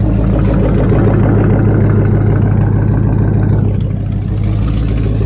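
Car engine idling steadily while it warms up.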